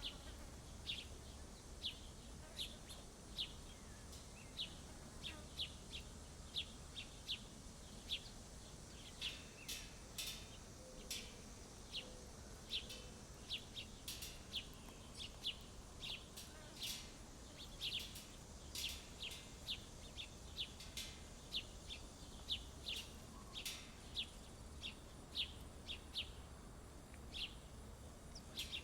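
Small songbirds at a feeder giving many short, high chirps, several a second, over a faint steady background hiss.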